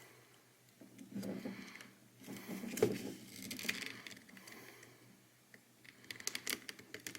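Small plastic clicks, taps and scraping as a computer mouse's plastic shell is handled and pried at, with one sharper click about three seconds in and a run of quick clicks near the end; the casing is not yet coming apart.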